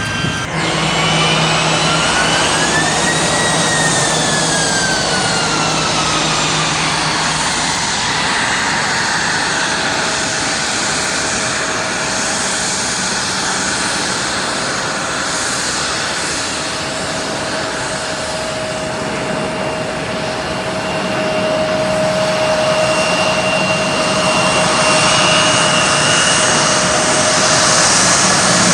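Airbus A321 jet airliner passing with its turbofan engines running: steady jet noise under whining tones that rise and then fall over the first few seconds, then settle into a steady whine.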